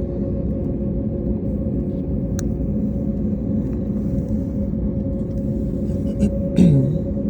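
Steady low machinery rumble with a constant droning hum, with a few short clicks and a brief dipping tone near the end.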